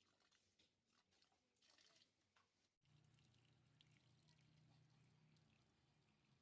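Near silence: faint room tone. A low steady hum comes in about three seconds in.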